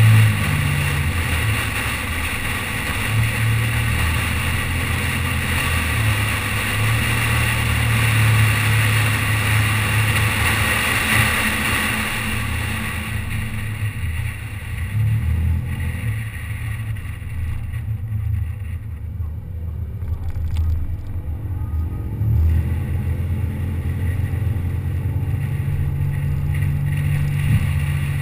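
Car engine running, with a rushing wind and road noise over its low hum. About halfway through the rushing falls away, leaving mostly the engine.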